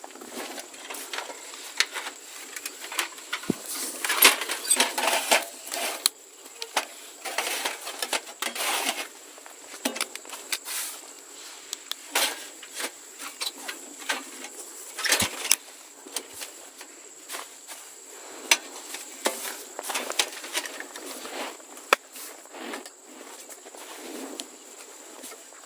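A steady high insect trill, crickets, runs throughout under irregular rustling, clicks and knocks of things being handled.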